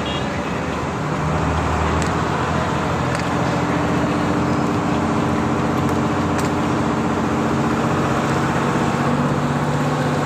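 A vehicle engine running steadily, a low even hum that gets louder about a second in, over traffic noise.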